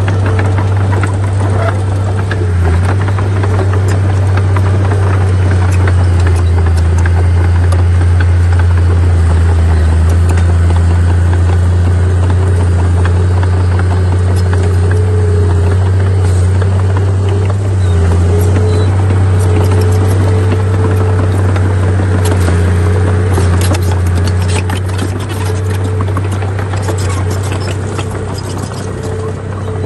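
Heavy diesel earthmoving machine running steadily under load, a deep engine drone with a wavering whine above it. In the last several seconds scattered clicks and knocks join in and the level dips slightly.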